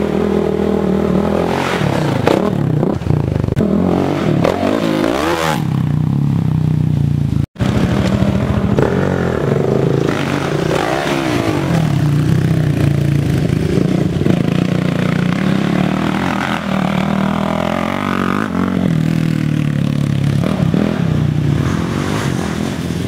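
Single-cylinder 450cc four-stroke sport ATV engine revving and running, its pitch rising and falling again and again as the throttle is worked. The sound cuts out for an instant about seven and a half seconds in.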